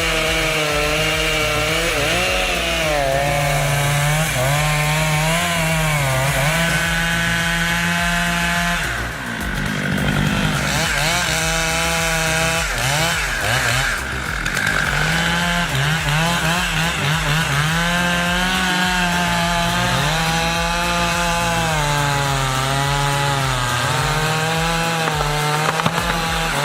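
Two-stroke chainsaw running at high revs through timber, its engine pitch sagging and recovering again and again as the chain loads up in the wood. The engine note drops away briefly twice, about nine and fourteen seconds in.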